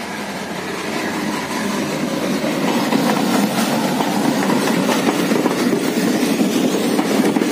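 Passenger train's wheels and running gear, heard through an open coach door as the train pulls out and gathers speed. The rumble grows louder over the first few seconds, with faint wheel clicks over the rails.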